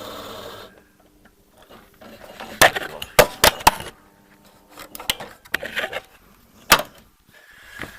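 Electric drill running steadily, stopping less than a second in; then a scatter of sharp clicks and knocks, metal tools and parts being handled.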